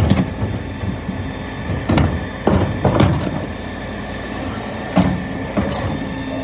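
Scania P320 bin lorry running with a steady mechanical hum while wheelie bins are worked on its Terberg bin lifters, with about five sharp knocks and bangs of bins and lifter, the last about five seconds in.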